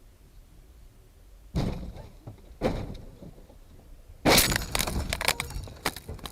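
Road vehicle crash: two sharp impacts about a second apart, then a louder crash of about two seconds, full of rapid cracks and clatter as of breaking glass and debris.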